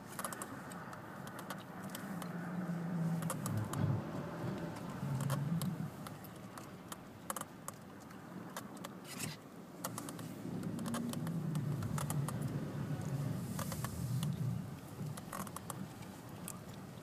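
Cabin sound of a 2007 VW Jetta's 2.5-litre five-cylinder engine pulling at low revs on snow, its note rising and falling gently, with many scattered light clicks and rattles over it.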